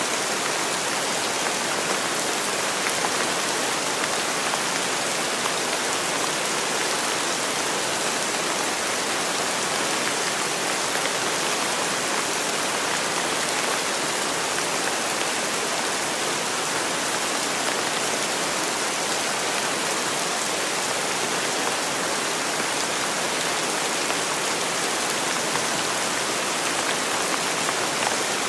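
Steady rain falling, a continuous even hiss of many drops on surfaces, without thunder or change in intensity.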